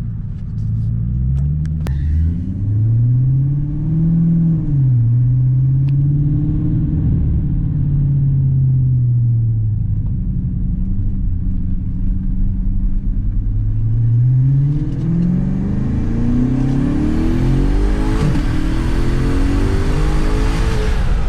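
2014 Audi S6 V8 fitted with a custom single-turbo kit, driving under load. The revs rise and fall once a few seconds in and hold fairly steady, then climb for the last several seconds in a hard pull on about 20–25 psi of boost, with a growing rush of air noise.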